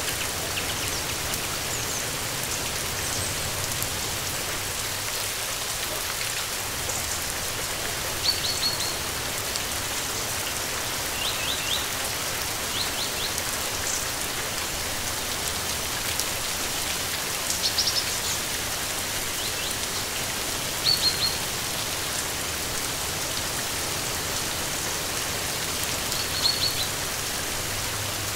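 Steady rain falling, an even hiss, with short high bird chirps now and then over it.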